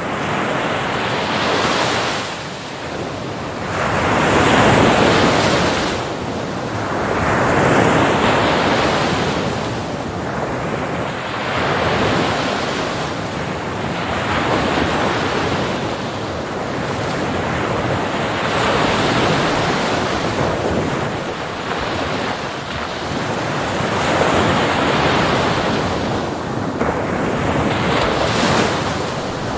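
Ocean waves breaking on a beach, the surf swelling and easing every few seconds, with wind on the microphone.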